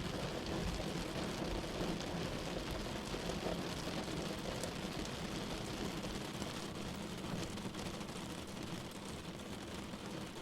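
Steady heavy rain falling, with a low rumble of distant thunder that dies away a little past halfway.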